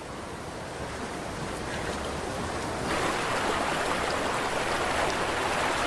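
Rushing river water, a steady hiss that grows gradually louder and then jumps up suddenly about three seconds in.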